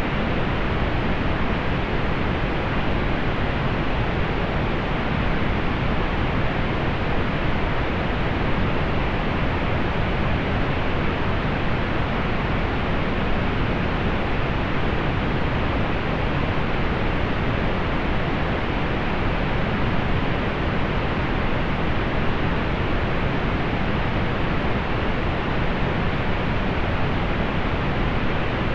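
Steady pink noise: an even, unchanging hiss with its weight in the lower range, the highs rolled off above about 4 kHz.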